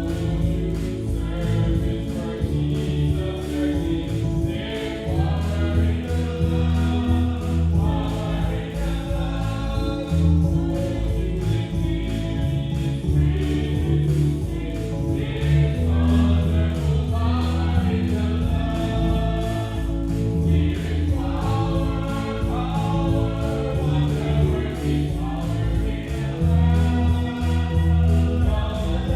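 Church congregation and choir singing a gospel hymn together, over instrumental accompaniment with a steady bass line.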